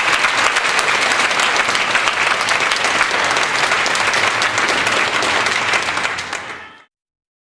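Concert audience applauding, many hands clapping densely; it fades quickly and cuts off about seven seconds in.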